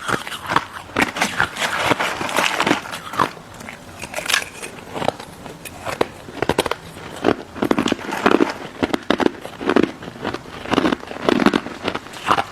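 Close-miked biting and crunching of crystal snow ice dessert: a dense, irregular run of crisp crackles and crunches, with fuller chewing crunches in the later part.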